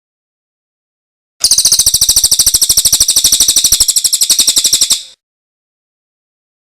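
Songbird giving a loud, rapid trill of high notes repeated evenly at about a dozen a second, starting about a second and a half in and lasting about three and a half seconds.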